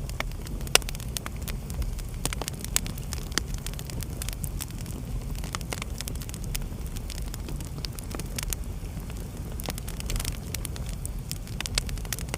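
Wood fire burning in a fireplace, crackling with frequent sharp pops and snaps over a low steady rumble of flame. The loudest pop comes about a second in.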